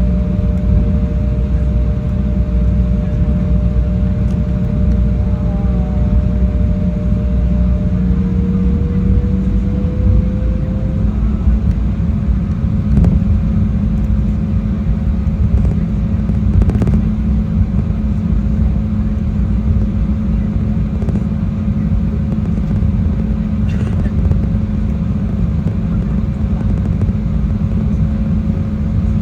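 Jet airliner's engines and airflow droning steadily as heard from the passenger cabin, a deep rumble with a faint steady hum; about eight seconds in, the hum rises slightly in pitch and settles.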